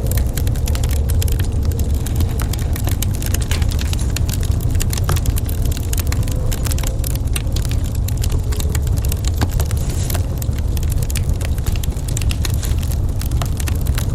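Wood fire in a fireplace crackling, with many small, irregular sharp pops and snaps over a steady low rumble.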